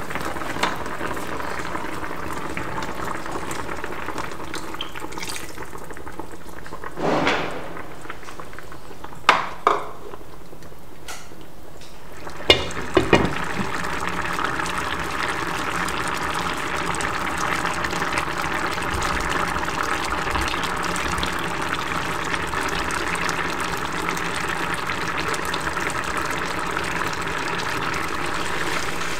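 Pot of bourdeto fish stew in tomato-less paprika broth bubbling steadily on the stove, with a few short knocks and clinks about seven, nine and twelve seconds in.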